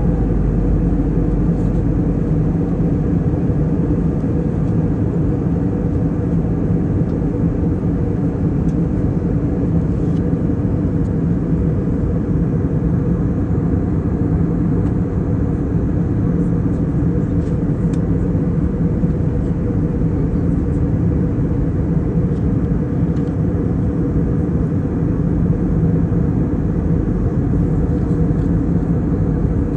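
Airplane engine noise heard inside the cabin in flight: a steady, unchanging drone with a low hum of several steady tones.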